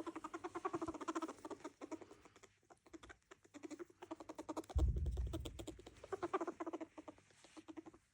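A small animal making rapid chattering, clucking calls in several bouts. A brief low thump comes about five seconds in.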